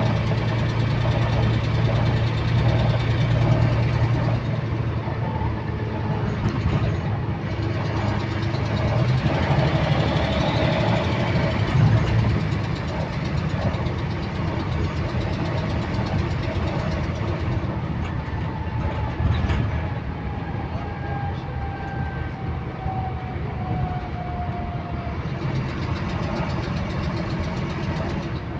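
Wright-bodied Volvo double-decker bus running, its engine humming steadily, with a repetitive clicking that keeps time with the engine speed. The engine note eases about halfway through, and a whine then falls slowly in pitch.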